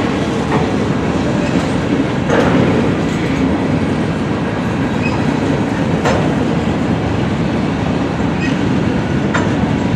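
Freight train of covered hopper cars rolling past on steel wheels: a steady, loud rolling noise from wheels and rails, with a sharp click every few seconds.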